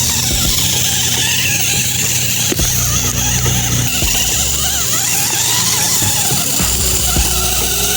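Small electric motor and gearing of a toy RC tractor running, with a steady high whine.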